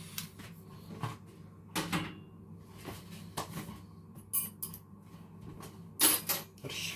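Scattered clicks and knocks of tools and parts being handled on a work surface, the loudest about six seconds in.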